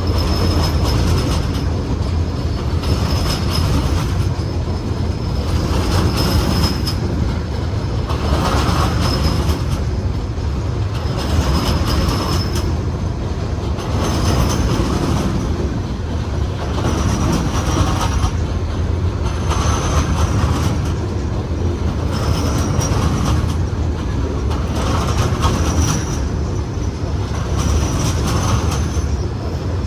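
Train rolling past with a steady rumble of wheels on rail. The wheel clatter swells in a regular rhythm about every one and a half seconds as the wagons go by, with a faint high wheel squeal coming and going.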